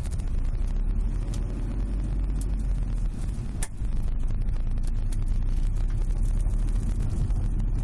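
Road and engine rumble inside a moving Subaru Legacy BH5 wagon, with scattered sharp crackling clicks ("paki-paki") from the rear hatch and cargo area, one louder snap about three and a half seconds in. It is an unexplained rattle that remains even with the hatch and cargo trim removed.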